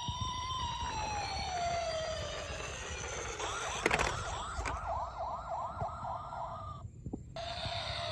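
Electronic police siren of a toy police car: a slow wail rising and falling over about two and a half seconds, then switching to a fast yelp of about three sweeps a second. A sharp click comes about four seconds in. The siren cuts off about seven seconds in, and a slow wail starts again half a second later.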